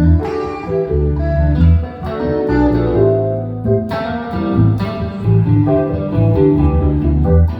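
Instrumental jam with guitar playing a melody over deep, held bass notes, with occasional sharp percussive hits.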